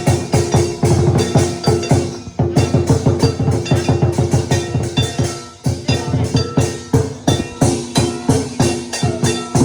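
Lion dance percussion: a drum beaten fast and without letup, about five or six strokes a second, with ringing metal cymbals and gong over it. The drumming breaks off briefly twice.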